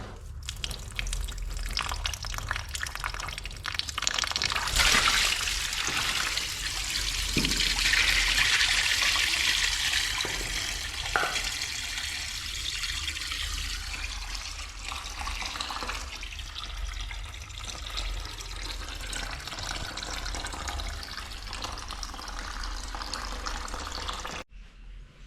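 Water rushing and draining, swelling sharply about five seconds in and easing off before it cuts off abruptly near the end, over a low steady hum.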